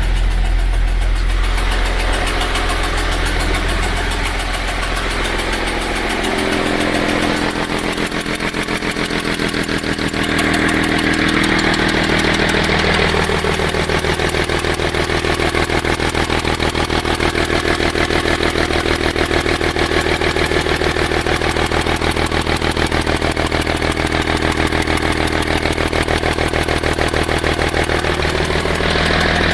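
BMW 530d inline-six diesel idling with its intake manifold removed, leaving the intake ports open. The running changes about six seconds in, then settles into a steady, even idle.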